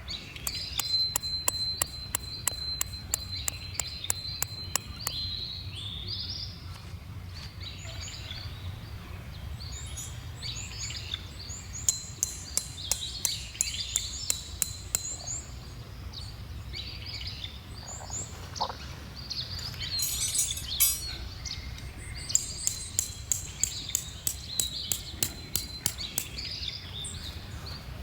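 Small birds chirping and calling over a steady low rumble, with several runs of quick sharp ticks, about three a second.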